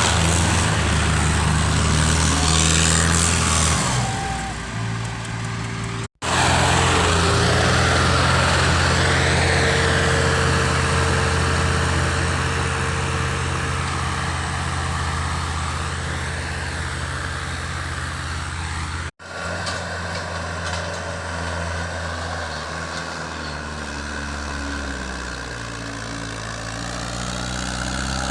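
Tractor engine running steadily, its pitch shifting a little about 4 seconds in and again near the end. The sound breaks off for an instant twice, about 6 and 19 seconds in.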